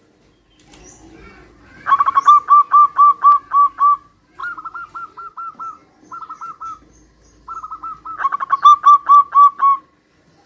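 Zebra doves (perkutut) cooing, each song a quick run of short, evenly spaced notes. A loud run comes about two seconds in and another near the end, with fainter runs in between.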